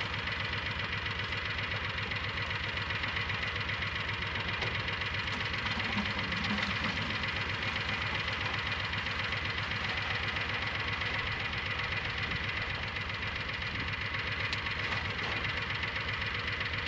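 An engine running steadily at an even speed, with a fast regular low pulse.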